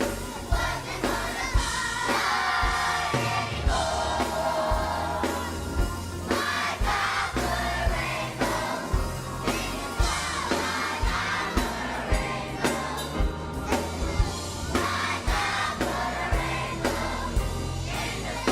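Gospel song sung by a young people's choir with band backing and a steady drum beat.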